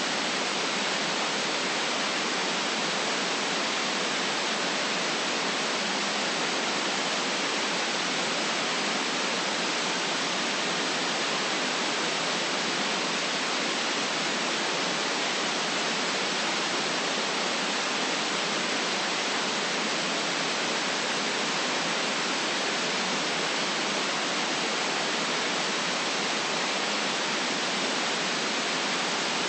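Steady electronic white noise: an even, unchanging hiss with little deep bass.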